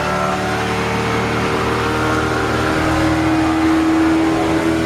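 A boat's engine running steadily with a continuous hum, its pitch rising slightly partway through.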